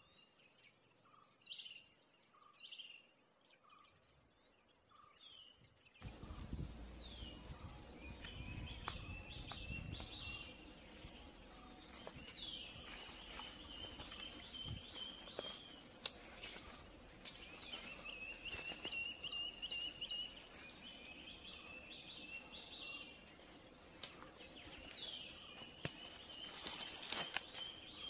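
Forest birdsong: faint chirps at first, then a songbird repeatedly sings a quick falling note followed by a level trill, every five or six seconds, over a steady background hiss with scattered small clicks.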